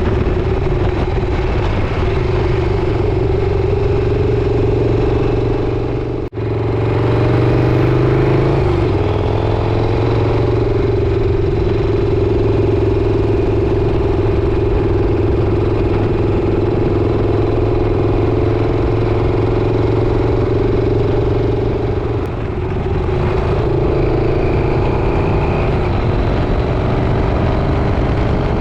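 Motorcycle engine running at steady highway speed under heavy wind rush. Revs drop sharply for a moment about six seconds in and pick up again, then ease off and climb once more near the end.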